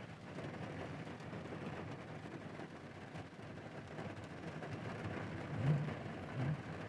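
Heavy rain falling steadily on a stopped car, heard as an even hiss, with two brief low thumps near the end.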